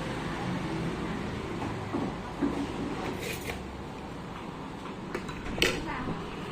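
A few light knocks and clatters of objects being handled, the loudest a little after five seconds in, over steady background noise.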